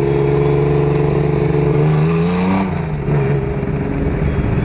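Car engine under way, its note rising steadily as it accelerates, then falling away sharply about two and a half seconds in and running on at a lower, steady pitch.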